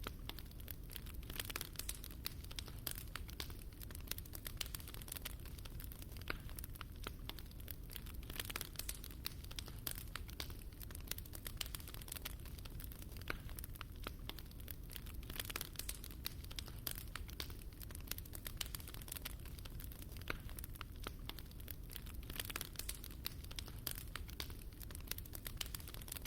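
Wood fire burning in a fireplace, crackling with many small, irregular snaps and pops over a steady low rumble.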